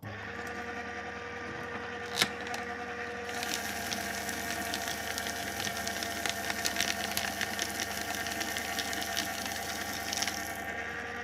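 Electric paper shredder: the motor starts with a steady hum, a sharp click comes about two seconds in, and then from about three and a half seconds the cutters chew through paper with dense crackling, easing off about ten seconds in while the motor keeps running.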